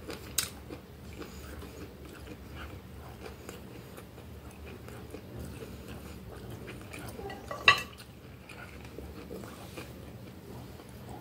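A person chewing grilled meat, close to the microphone, with a steady run of small wet mouth sounds. A sharp click comes about half a second in, and a louder sharp click comes near eight seconds in.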